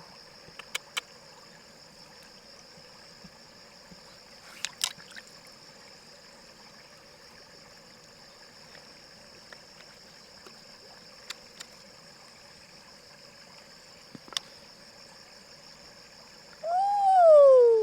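Quiet steady outdoor background with a thin high-pitched hum and a few faint light clicks. Near the end a person's voice calls out once, its pitch sliding down.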